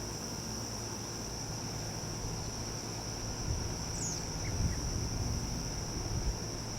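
Steady, high-pitched insect drone in summer, one unbroken tone over a low background rumble, with a single faint short chirp about four seconds in.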